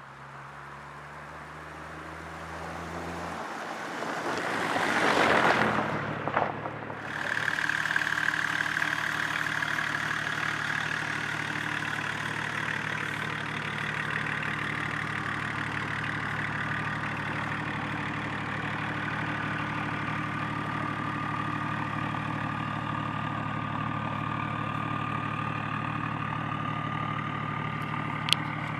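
BMW E34 525tds M51 straight-six turbodiesel running through a straight-pipe exhaust: the sound builds to a loud peak about five seconds in, drops briefly, then settles into a steady idle. A short click comes near the end.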